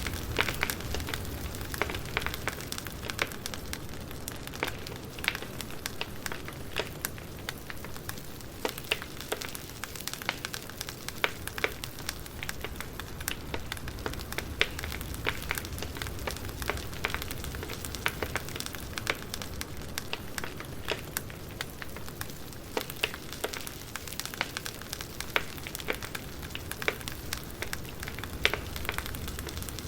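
Wood fire crackling: a steady low rumble with frequent sharp, irregular pops and snaps of burning logs.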